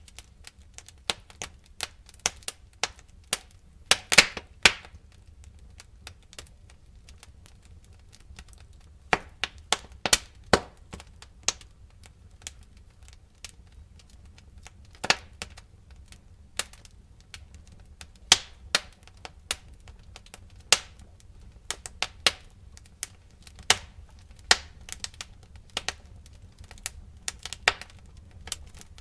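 Wood fire crackling: irregular sharp pops and snaps, some louder than others, over a low steady rumble of the burning fire.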